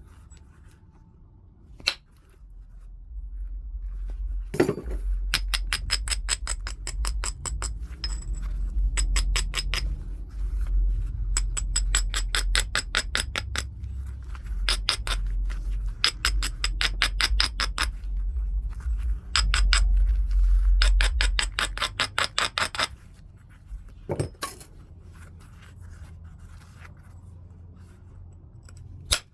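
Heat-treated Burlington chert edge being scraped in bursts of rapid, sharp stone-on-stone clicks, about seven a second, over a low rumble. A few single sharp clicks come before and after the bursts.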